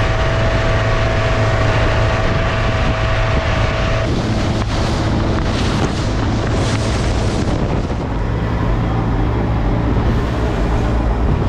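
Bayliner Capri boat's engine running steadily under way, with wind buffeting the microphone. A thin steady whine runs alongside the engine and stops about four seconds in.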